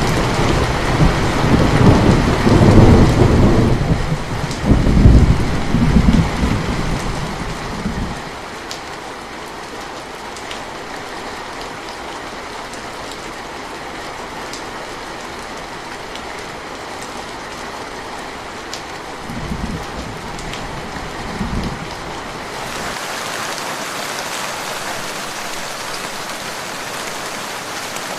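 Steady rain falling, with scattered sharper drop hits, and thunder rumbling heavily for the first eight seconds before dying away. Two short, fainter rumbles come around two-thirds of the way through, and near the end the rain's hiss turns brighter as the low rumble drops out.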